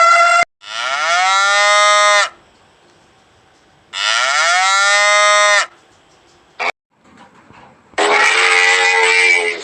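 Cattle mooing: a short call at the start, then two long moos a couple of seconds apart, each dropping in pitch as it ends, and a rougher, harsher call in the last second and a half.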